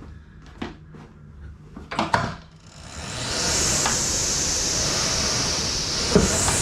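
A few clacks from a knockoff Concept2-style air rowing machine, then, about three seconds in, its fan flywheel spins up into a steady whooshing hiss as rowing begins.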